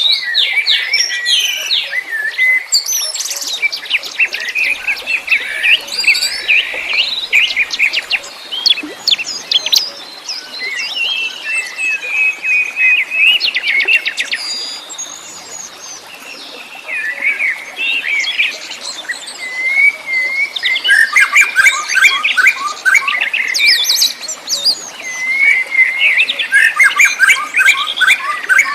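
Several wild songbirds singing and chirping at once, with fast trills and whistled phrases overlapping, dipping briefly about halfway through.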